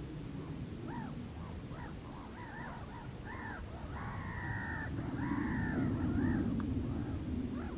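Whooper swans calling: a run of short honks, each rising and falling in pitch, from several birds overlapping. A low rushing noise lies beneath and grows louder in the second half.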